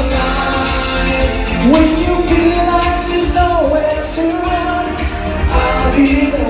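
A male singer singing a pop song over a band accompaniment with a steady drum beat. His voice slides up into a long held note a little under two seconds in.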